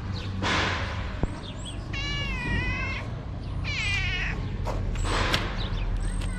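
A tabby cat meowing twice, two wavering meows of about a second each a couple of seconds in, a hungry cat's begging calls. Two short rushing noises come before and after the meows over a steady low hum.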